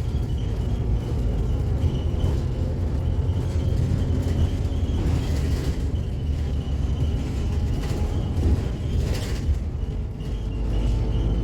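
Scania K280UB city bus with Caio Mondego II bodywork running on the move, heard from on board: a steady low engine and road rumble with a thin steady whine above it, and a couple of brief rattles around five and nine seconds in.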